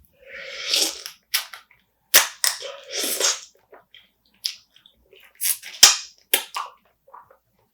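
Close-up eating of spicy marinated raw crab: sharp cracks of crab shell bitten through, the loudest about two seconds in and near six seconds, between wet sucking and chewing.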